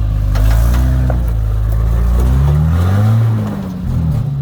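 Four-wheel-drive's engine revving under load off-road, rising and falling in pitch twice before the revs drop away near the end, with a few light ticks.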